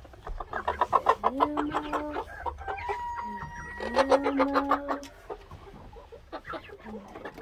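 Flock of chickens clucking, with two drawn-out crows from young roosters about one and four seconds in.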